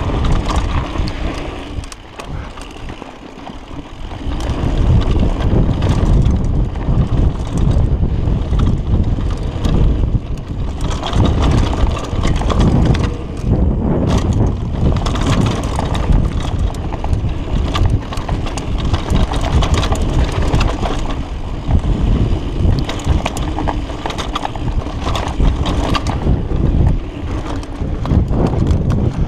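Wind rushing over the microphone while a mountain bike rides fast down a dirt trail, its tyres running over dirt and its frame and parts clattering with many small knocks. The noise drops for a couple of seconds about two seconds in, then picks up again.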